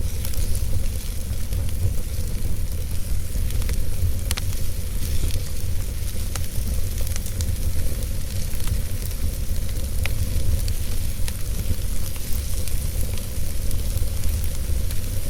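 Wood fire burning in a fireplace: a steady low rumble and hiss with scattered sharp crackles and pops from the burning logs.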